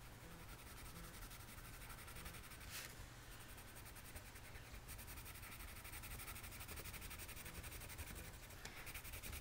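Faint scratching of a white colored pencil shading on stamped cardstock, over a low steady hum.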